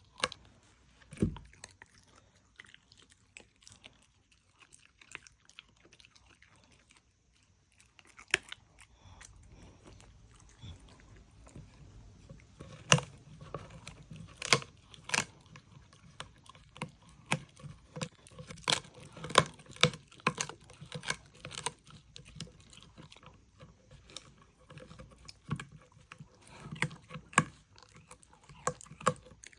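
A dog chewing and crunching food in irregular sharp crunches. They are sparse for the first several seconds, then come thick and fast from about twelve seconds in.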